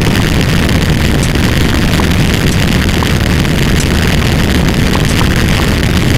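A loud, steady rumble of noise, heaviest in the low end, with a few faint ticks scattered through it.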